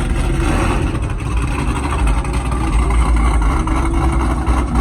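A vehicle engine running with a steady, deep rumble.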